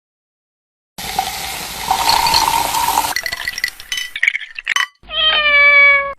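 About two seconds of hissing, rushing kitchen noise, then a few short clinks and taps. Near the end comes one loud cat meow that falls slightly in pitch.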